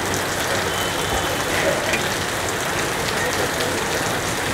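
Rain pouring steadily, an even hiss with a scatter of faint ticks.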